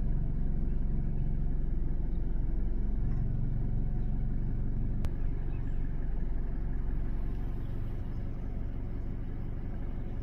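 Car engine running with a steady low rumble, heard close to the microphone, with a single sharp click about five seconds in.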